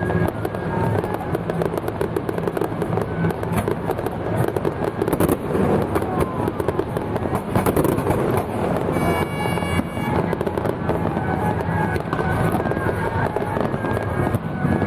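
Strings of firecrackers crackling in a dense, continuous rattle of pops, with music playing along. A short pitched tone sounds about nine seconds in.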